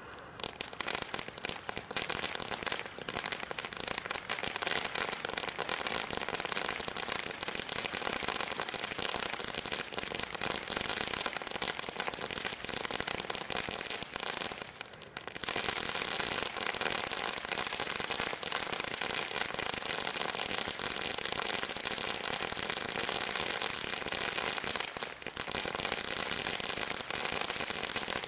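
Consumer fireworks from a selection box going off, a dense, continuous crackling that starts suddenly and runs on with a brief lull about halfway through.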